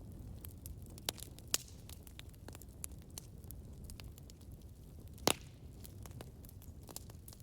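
Wood campfire crackling: irregular sharp pops and snaps over a low steady rumble, with the loudest pop about five seconds in.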